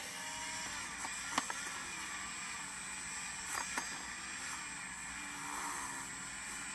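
Dremel rotary tool running, its pitch sagging and recovering as it is worked against the metal to clean off surface rust, with a couple of sharp clicks.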